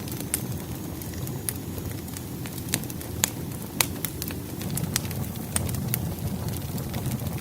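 Wood fire burning with a low steady roar and sharp, irregular crackles and pops of the logs.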